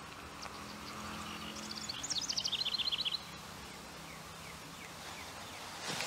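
A songbird sings a quick run of high, falling notes about two seconds in, lasting roughly a second, over quiet outdoor ambience with a faint low hum.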